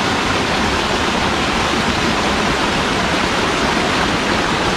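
Waterfall: water pouring steadily, an even rushing noise that does not change.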